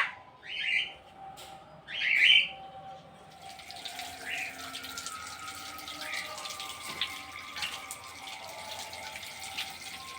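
Two short bird calls, then water running steadily from about three and a half seconds in.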